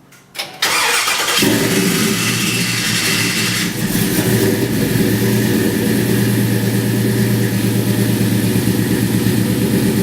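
Engine cranked by its electric starter and catching about a second in, then running steadily. A high whirring over the running engine cuts off about four seconds in, the sign of a starter that stays engaged after the engine fires.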